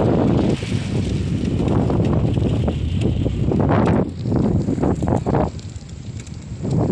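Riding noise from a mountain bike on the move: a steady low rumble of wind on the microphone and road, with rattles and clicks from the bike. The rumble eases briefly near the end.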